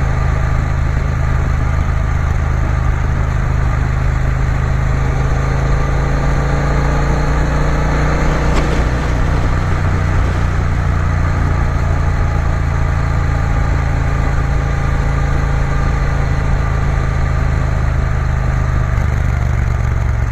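Triumph Bonneville T120's parallel-twin engine running steadily while the motorcycle is ridden along, its note shifting slightly about nine seconds in.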